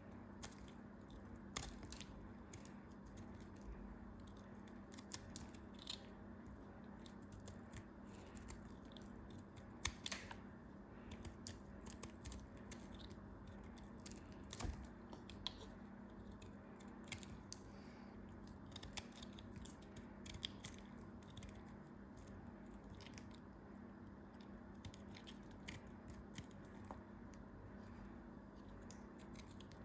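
Soft, irregular crunches and crackles with scattered sharper clicks, as of something being cut or crumbled by hand, over a steady low hum.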